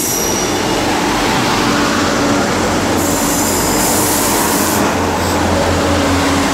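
Class 158 diesel multiple unit pulling into the platform: a steady rumble of diesel engine and wheels with a faint held tone, and a hiss for a couple of seconds midway.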